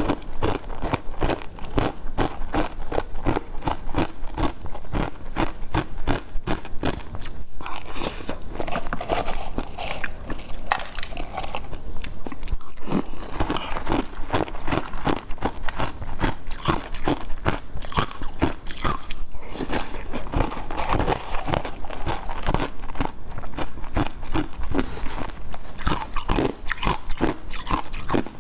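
A person eating sweet cakes close to the microphone: continuous biting and chewing, with several short clicky mouth noises a second.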